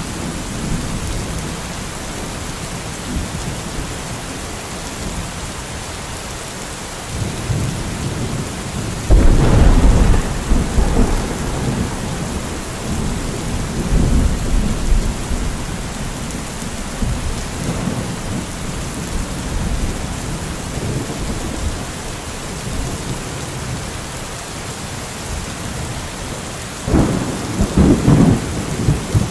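Steady heavy rain throughout, with thunder rumbling over it. A loud clap about a third of the way in rumbles on for a couple of seconds, weaker rumbles follow, and another loud clap comes near the end.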